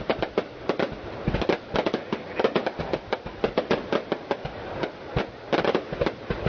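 Aerial firework shells bursting in a rapid, irregular barrage of bangs and pops, several a second.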